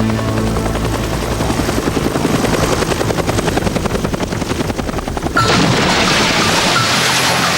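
Helicopter rotor chopping rapidly and steadily. About five seconds in it cuts off abruptly, giving way to a louder sound with short repeated high chirping tones.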